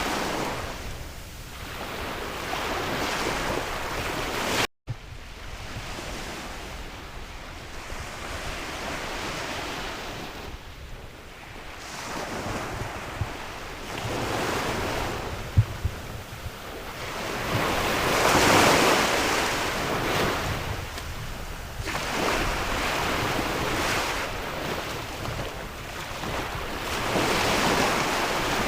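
Sea waves breaking and washing in, swelling and fading every few seconds, with wind rumbling on the microphone. The sound cuts out for an instant about five seconds in.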